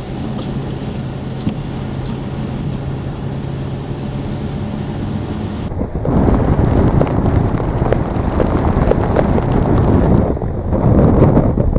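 A vehicle driving slowly, with a steady low engine hum. About six seconds in this switches abruptly to louder rushing wind noise on the microphone with scattered crackles.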